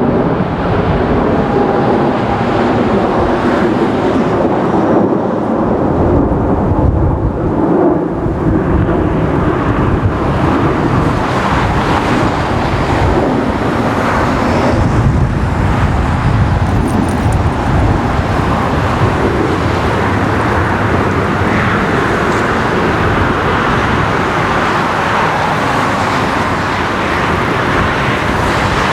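Airbus A340-300's four jet engines running at a loud, steady roar as the airliner moves on the runway, the sound slowly shifting in tone.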